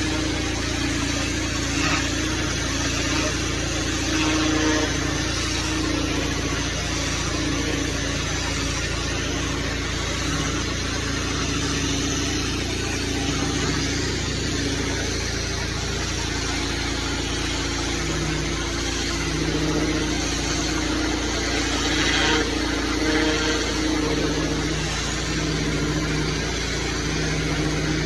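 Small petrol engine running steadily under a loud, even rushing hiss, the sound of gas-powered cleaning equipment at work.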